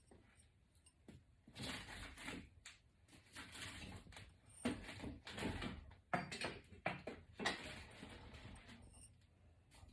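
Box braids being taken down by hand: irregular scratchy rustling of braiding hair being pulled and unravelled, in uneven bursts with a few sharp clicks.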